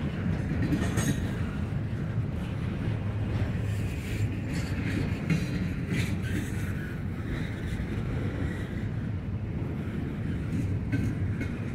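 Double-stack intermodal freight train rolling past: a steady rumble of steel wheels on rail from the passing well cars, with a few sharp clicks and faint high wheel tones.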